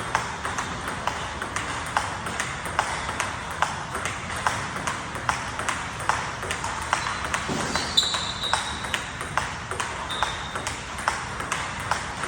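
Table tennis ball struck back and forth with a bat faced with DHS Hurricane 3 rubber, and bouncing on the table: sharp, evenly paced clicks, about two to three a second, in a steady rally. Two brief high squeaks come near the middle.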